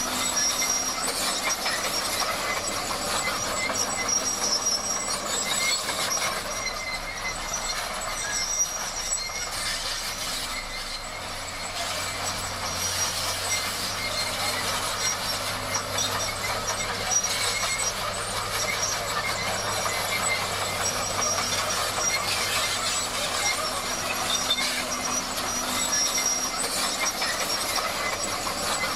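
Bulldozer working, its steel crawler tracks squealing and grinding steadily over a low engine hum.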